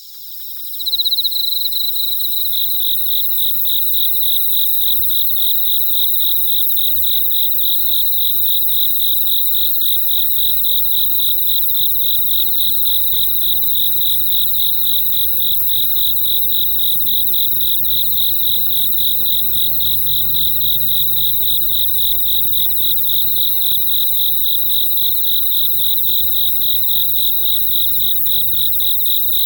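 Crickets chirping in a steady, fast, evenly pulsed trill. It comes in about a second in after a short dip.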